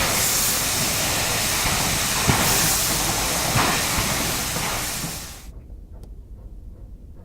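SY-class steam locomotive hissing loudly, with a few knocks, the hiss dropping away sharply about five and a half seconds in and leaving a faint low rumble.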